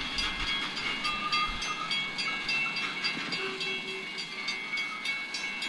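BNSF freight train's hopper cars rolling past over the rails, with a grade-crossing bell ringing in rapid, even strokes.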